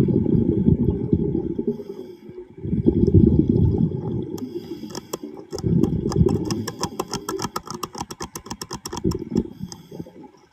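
Diver's exhaled air bubbling out of a breathing regulator underwater: three long, loud bubbling rumbles with short pauses between them. A rapid run of sharp clicks sounds through the second half.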